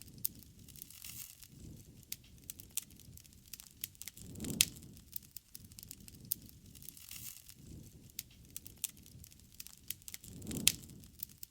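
Wood campfire crackling with many small snaps and two louder pops, one about four seconds in and one near the end, over soft swells of low flame noise.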